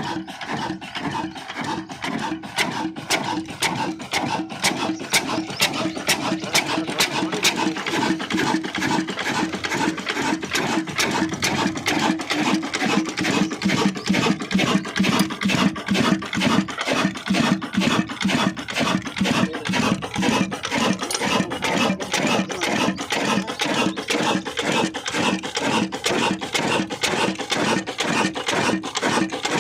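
Old Ruston 28 HP diesel engine running steadily just after a hand start, a fast even beat of firing strokes.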